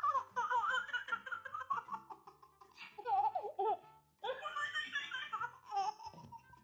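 A baby laughing in several bursts, over background music.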